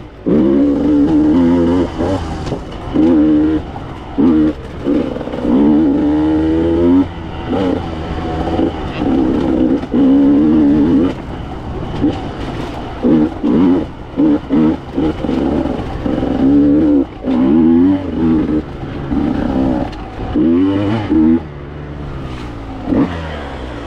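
Two-stroke enduro motorcycle engine revved hard in repeated bursts, its pitch sweeping up and falling back as the throttle is opened and shut, with lower running between the bursts.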